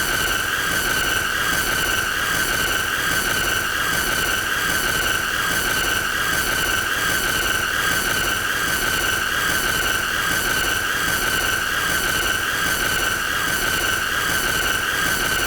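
A continuous shrill squealing sound effect, held at one high pitch over a steady hiss, with no break or change in loudness.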